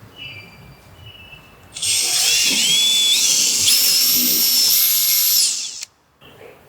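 Electric wood router running at high speed, a loud high whine that starts suddenly about two seconds in, steps up in pitch a few times, and cuts off abruptly near the end.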